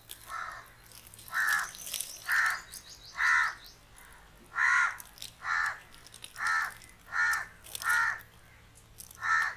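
A bird calling with a string of about ten short, harsh caws, roughly one a second.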